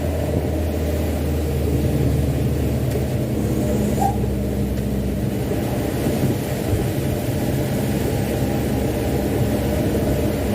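Mitsubishi Canter 125HD dump truck's diesel engine running steadily as the truck pulls away heavily loaded with wet sand. A higher whine in the engine note falls at the start and one short click comes about four seconds in.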